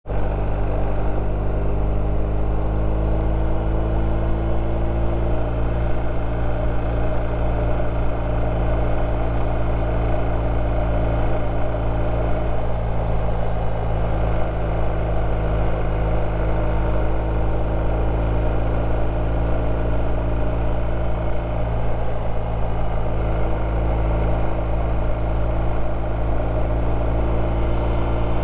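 BMW R1250 RT's boxer twin engine running steadily while riding, with low wind rush. The engine note shifts slightly a few times.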